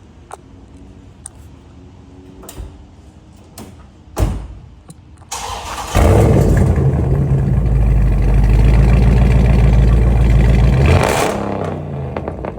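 Car engine on a catless exhaust starting up about five seconds in: loud and steady for roughly five seconds, then easing down toward idle near the end. A few clicks and a thump come just before the start.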